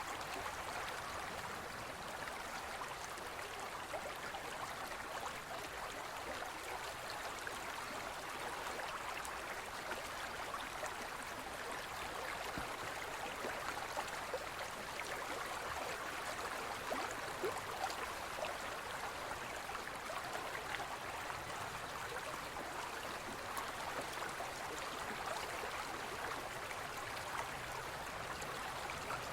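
Forest river flowing steadily over stones, a continuous splashing and gurgling rush with small droplet ticks.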